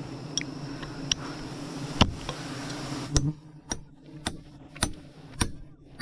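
A series of sharp knocks or taps, roughly two a second in the second half, over a low steady hum that drops away about three seconds in.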